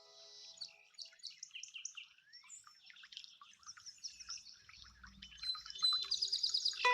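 Several small birds chirping and twittering, short overlapping calls that grow louder near the end.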